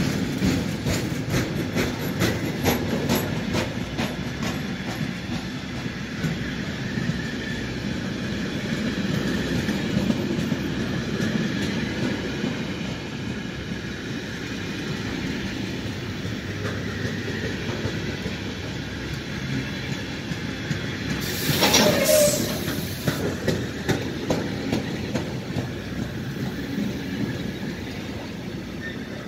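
Container freight train wagons rolling past close by, a steady rumble with the clickety-clack of wheels over rail joints, strongest in the first few seconds. About three quarters of the way through there is a brief, louder burst of noise with a squeal.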